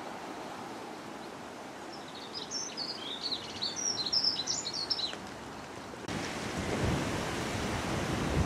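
A small bird sings a quick run of high chirps for about three seconds over a steady outdoor background noise. About six seconds in, the sound cuts suddenly to a louder, lower rush of noise.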